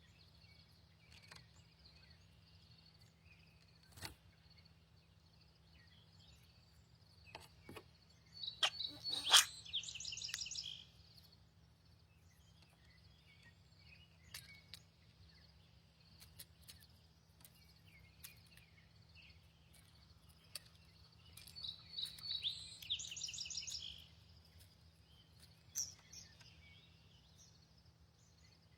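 A songbird sings twice, about twelve seconds apart. Each song is a few sharp notes leading into a short buzzy trill. A faint steady high hiss runs underneath.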